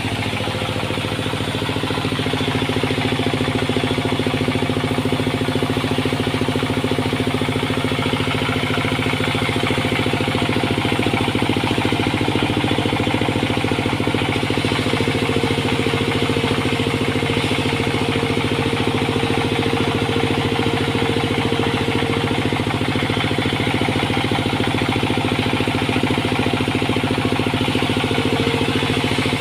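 Sawmill machinery running steadily with a continuous engine-like drone. A higher steady tone joins it for several seconds past the middle and again near the end.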